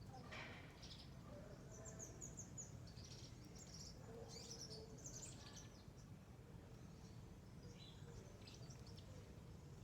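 Faint chirps and twitters of small garden birds, coming in short clusters, over a steady low background hum.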